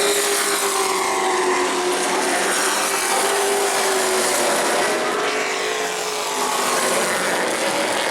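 Race truck engines running at speed, a steady loud engine note whose pitch slowly rises and falls over a wash of engine and tyre noise.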